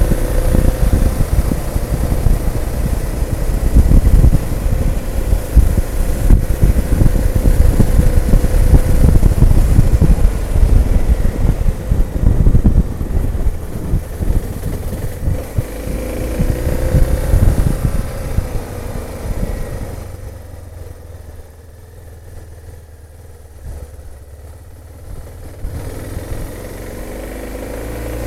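Motorcycle engine running on the move, with wind buffeting the microphone; the engine pitch rises and falls with the throttle. Past the middle the sound drops much quieter for several seconds, then builds again near the end.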